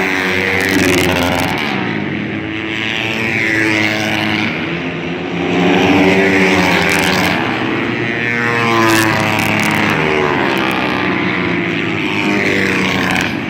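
Several dirt bike engines running hard together, their pitch repeatedly climbing and dropping as the bikes accelerate, shift and pass.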